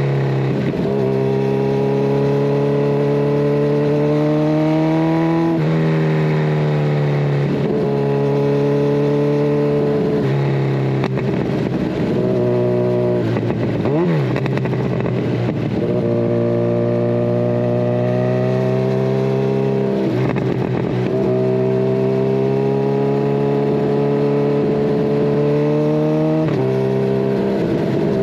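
Kawasaki Ninja 1000SX inline-four with a decat pipe and Scorpion Red Power exhaust, accelerating under load. The pitch climbs and drops at each gear change, several times over, with a brief dip and pick-up about halfway through.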